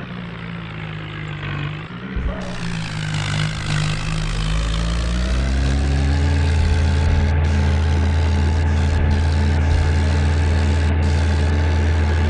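Modified 4x4 tractor's engine running, climbing in pitch and loudness over the first few seconds, then holding a steady, heavy drone.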